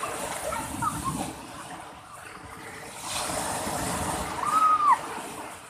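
Sea surf: a wave rushing and washing in, swelling about three seconds in and easing off near the end, with one short high call from a voice just before it fades.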